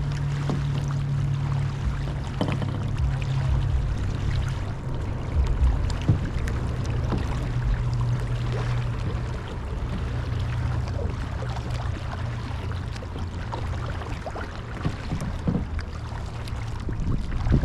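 Kayak paddling: paddle strokes and water splashing and knocking against the hull, over a steady low hum that shifts slowly in pitch.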